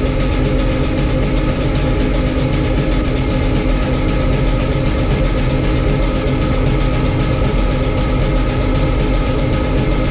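Starter cranking a built, supercharged Ford Coyote V8 over steadily without it firing, in a first crank-over to prime the oil system; no oil pressure has come up yet.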